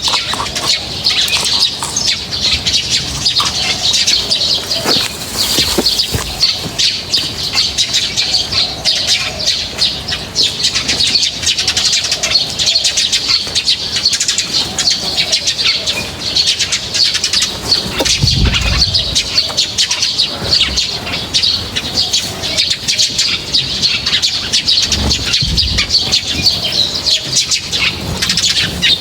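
A group of small birds chirping and twittering continuously in a dense, busy chorus. Twice there is a brief low thump, once a little past the middle and once later.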